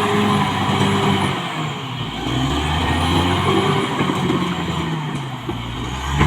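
Caterpillar D6R XL bulldozer's diesel engine running under working load, its pitch shifting up and down, with a faint high whine that rises and falls a few times.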